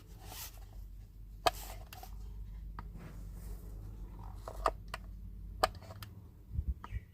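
Scattered sharp clicks and light handling noise of plastic interior trim, from the overhead sunglass holder and its cover being worked by hand, over a steady low hum.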